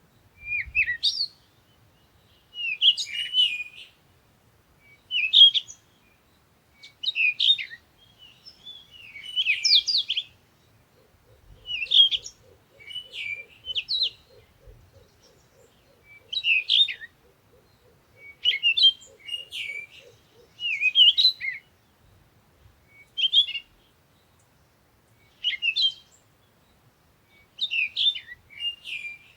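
Bird chirping in short, quick high-pitched phrases, one about every two seconds.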